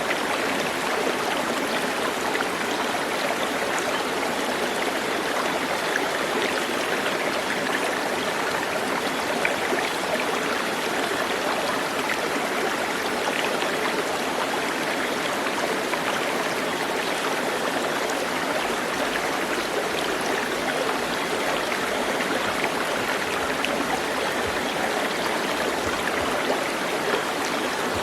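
Steady rush of a flowing stream, water running over stones with an even, unbroken sound.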